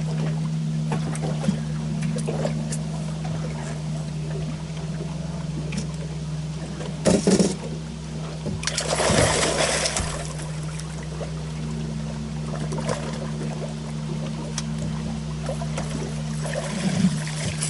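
A steady low hum throughout, broken about seven seconds in by a short sharp clatter and then a couple of seconds of noisy splashing as a catfish is brought alongside and gripped.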